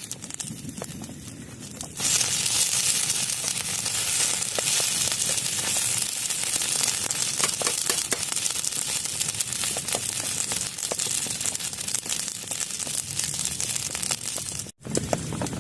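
Heavy rain pattering on a plastic tarp: a dense hiss full of small drop impacts that jumps suddenly louder about two seconds in and cuts out for an instant near the end.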